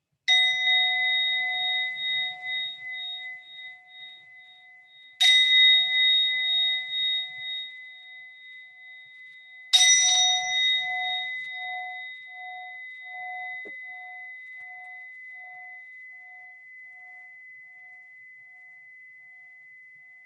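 A meditation bell struck three times, about five seconds apart, each stroke ringing out in a long, slowly fading tone with a gentle wavering pulse; the last ring dies away over about ten seconds. The bell marks the end of the loving-kindness meditation.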